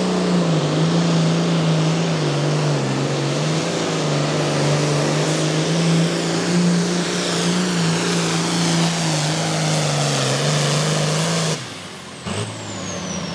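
Diesel pulling tractor running hard under load as it drags the weight sled, its engine note wavering up and down. About eleven and a half seconds in the engine drops off abruptly at the end of the pull, and a high whine falls away after it.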